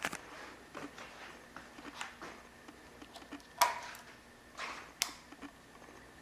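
A few scattered clicks and knocks from handling around the motorcycle, the loudest about three and a half seconds in, with the engine not yet running.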